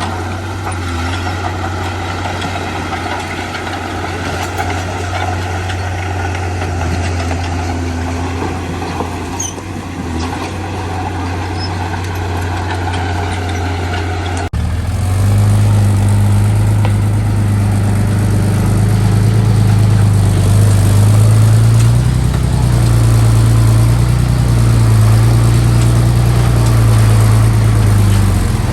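Heavy diesel engine of a construction machine running steadily. About halfway through, the sound switches abruptly to a louder, deeper engine note.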